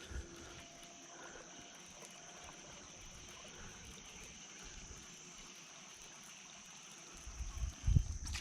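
Quiet river background: faint trickling water with a steady high hiss, and a few low bumps near the end.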